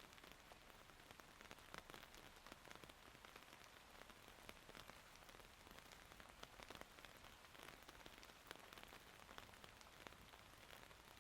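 Faint steady rain falling, with many small sharp drop impacts ticking throughout.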